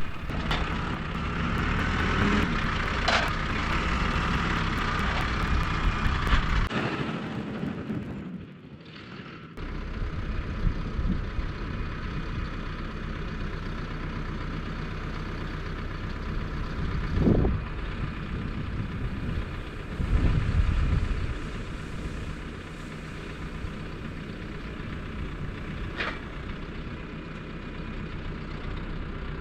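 Engine of farm machinery running steadily. It drops out briefly about eight seconds in, then comes back with short louder swells around the middle.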